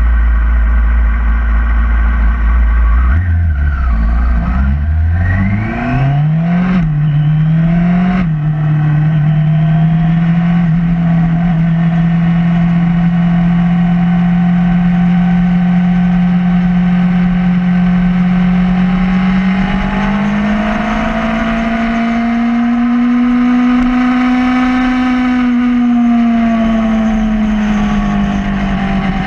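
2011 Yamaha R6's inline-four engine running at low revs, then revving up through three quick upshifts about five to eight seconds in. It then holds steady revs, climbing gently about twenty seconds in and easing back near the end.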